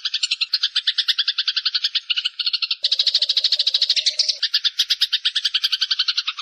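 Songbird 'mastering' recording: a fast, even trill of rapidly repeated high calls, many pulses a second. About three seconds in, a second trill with a lower-pitched buzzing layer joins it. Tracks like this are played to cage birds to teach them the calls.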